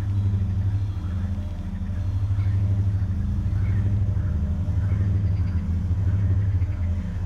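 King Drone analog drone synth playing a low, steady drone through its low-pass filter, with a slow wavering pulse of about one swell a second.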